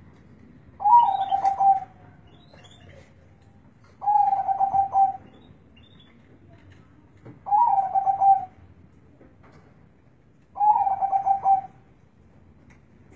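Zebra dove (perkutut) cooing: four short phrases of rapid stuttering coo notes, each about a second long, repeating roughly every three seconds.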